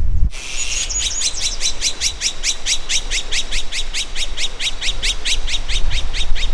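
A bird calling in a fast, even run of sharp falling notes, about five a second, over a thin steady high tone, starting abruptly just after the start.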